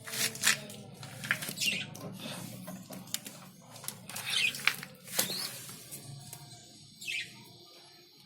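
Budgerigars chirping in short, scattered high-pitched calls.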